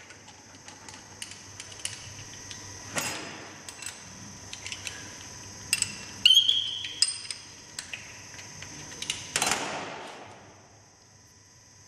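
Small metal parts and tools being handled on a workbench during unit injector repair: scattered clicks and clinks, a brief squeak about halfway, and two short hissing bursts, one near the start and one near the end.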